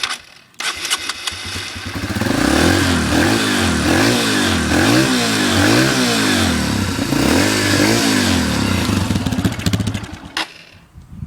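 Honda CRF150F's single-cylinder four-stroke engine turned over by its electric starter, catching about two seconds in. The throttle is then blipped repeatedly, the revs rising and falling about once a second, before the engine is shut off near the end.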